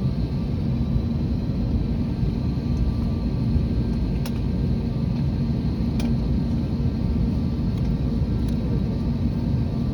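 Steady low rumble of an Airbus A321neo's jet engines, with faint clicks about four and six seconds in.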